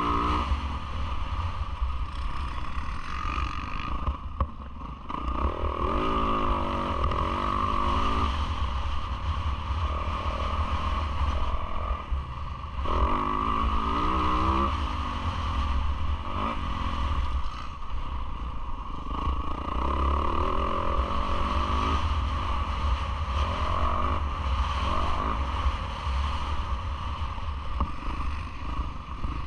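Yamaha YZ450F four-stroke single-cylinder motocross bike racing, its engine revving up and falling back again and again under hard riding, over a constant low rumble.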